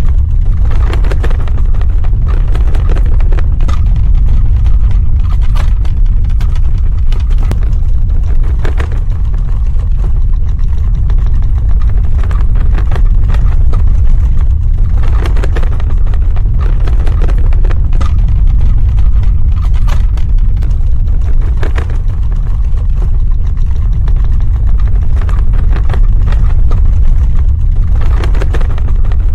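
Earthquake sound effect: a loud, continuous deep rumble with scattered crackles over it and brief surges every several seconds.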